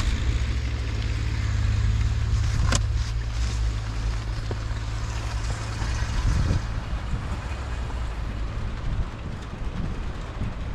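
Steady low engine rumble under a noisy wash of wind, with a single sharp click about three seconds in.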